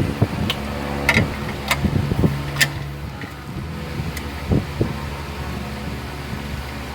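A shop fan running steadily, with about half a dozen sharp clicks and knocks in the first five seconds from hand work on the engine.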